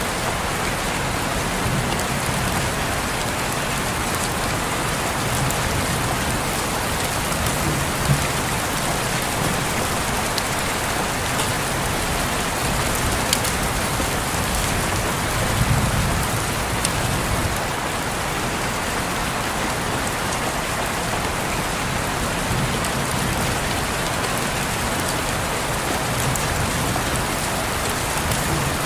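Steady rain falling on a window pane, an even hiss with scattered sharp drop ticks.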